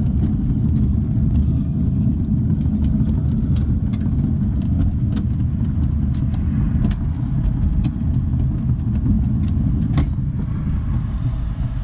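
A 7¼-inch gauge miniature railway train rolling along the track: a steady low rumble of the wheels on the rails, with frequent irregular clicks and knocks.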